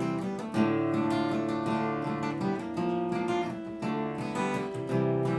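Acoustic guitar strummed and picked: the instrumental intro to a folk song, played solo.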